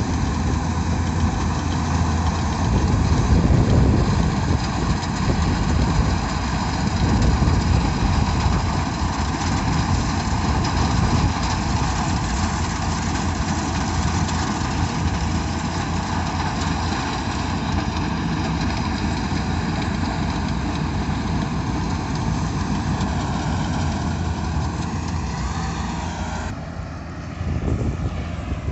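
Rice combine harvester running steadily, its engine and machinery giving a continuous mechanical drone with many even tones. Near the end the pitch sags slightly and the sound drops off abruptly and gets quieter.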